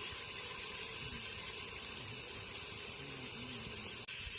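Running water, a steady hiss that starts abruptly and cuts off near the end.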